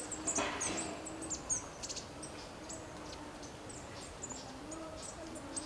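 Small birds chirping: many short, high notes that fall quickly in pitch, scattered throughout, over a faint low wavering hum.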